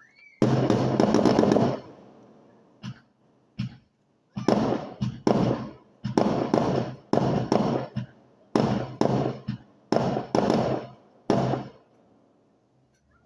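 Fireworks going off: a dense crackling burst about half a second in, then a run of separate sharp bangs, roughly one or two a second, each dying away quickly.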